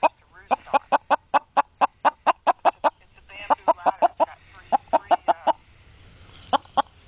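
Hen clucking in quick runs of short, even clucks, about four or five a second, breaking off briefly twice and starting again near the end.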